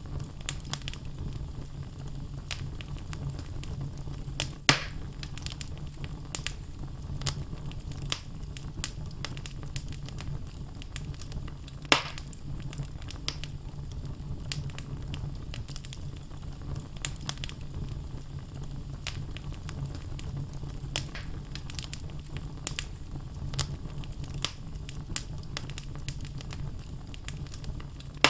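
Wood logs burning in a fireplace, crackling steadily with scattered sharp pops. Two louder pops come about five and twelve seconds in, over a steady low sound from the fire.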